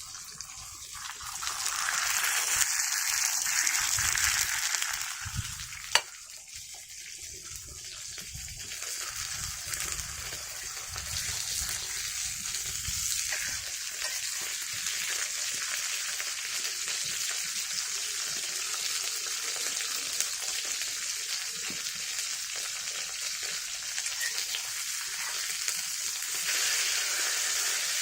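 Food frying and sizzling in a hot pan. It is loudest for a few seconds near the start, there is a single sharp click about six seconds in, and then a steady sizzle.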